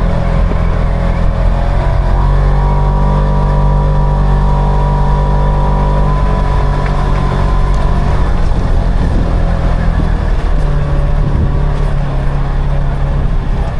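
Side-by-side UTV's engine running steadily while driving, with its note changing about two seconds in and again a few seconds before the end.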